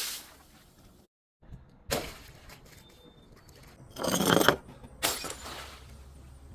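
Glass breaking in three separate crashes: a sharp crack about two seconds in, the loudest shatter around four seconds, and another just after five seconds that trails off.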